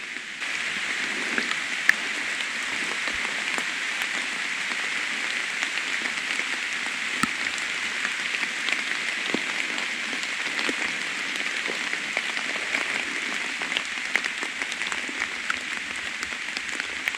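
Steady rain falling, a dense patter of small drop ticks that comes up suddenly about half a second in and then holds even.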